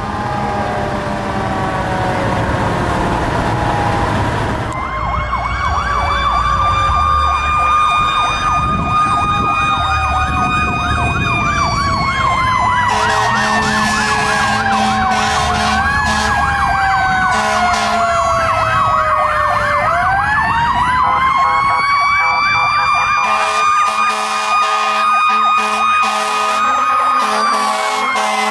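Several fire trucks' sirens sounding together. A mechanical Federal Q siren winds down, then spins back up about two-thirds of the way through and holds a steady high wail, over electronic sirens wailing and yelping fast. Air horns blow long steady notes over the rumble of the truck engines.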